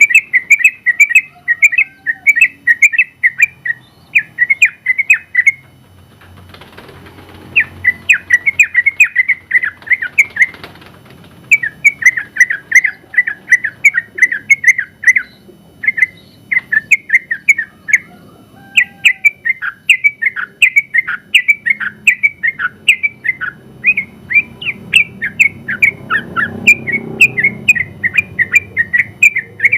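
Yellow-vented bulbul (trucukan) in full song, pouring out long runs of rapid, bubbly notes, each run lasting a few seconds with short breaks between them.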